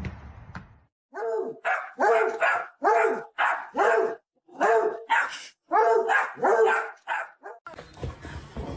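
A dog barking repeatedly: about fifteen short, fairly high-pitched barks at roughly two a second. They follow a brief low rumbling noise at the start.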